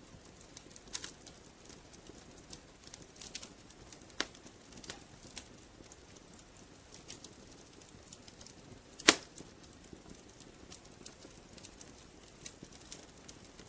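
Wood fire crackling: scattered, irregular crackles and pops over a faint low hiss, with one sharp, loud pop about nine seconds in.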